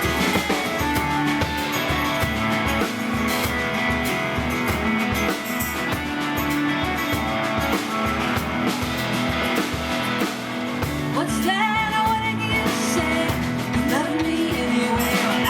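Live band playing a song on guitar and drum kit, with a steady beat.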